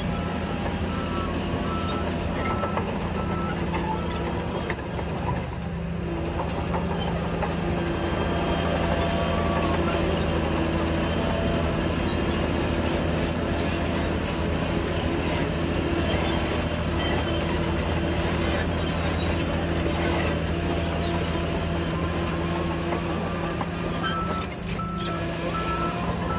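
Heavy earthmoving machinery's diesel engine running steadily under load. A reversing alarm beeps at the start and again near the end.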